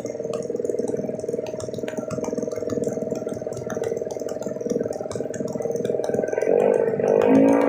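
Drag bike engine running at a steady speed, with a rapid pulsing. Guitar music comes in about six and a half seconds in.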